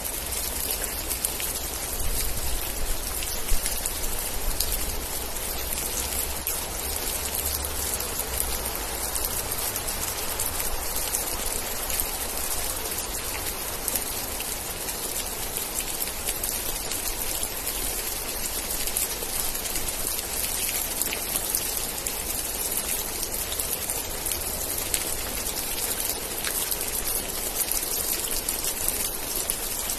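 Steady rain, a dense hiss of many small drop impacts with individual drops pattering on a surface. A low rumble runs underneath, strongest in the first third.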